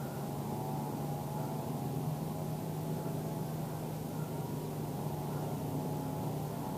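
A steady engine hum, holding one low pitch without change.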